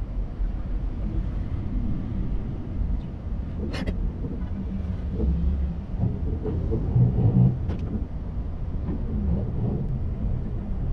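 Low, steady rumble of car engines idling and rolling slowly forward in a queue, heard from inside a car's cabin. There are two sharp clicks, one just under four seconds in and another near eight seconds.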